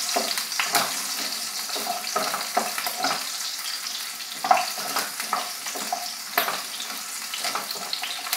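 Small shallots sizzling in hot coconut oil in a nonstick pan, with a wooden spatula scraping and knocking against the pan as they are stirred; the louder knocks come about four and a half and six and a half seconds in.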